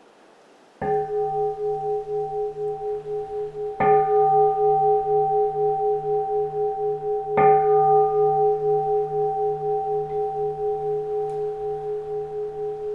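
A keisu, a Japanese Buddhist bowl bell, struck three times about three seconds apart. Each strike rings on in a long, slowly pulsing hum that fades gradually.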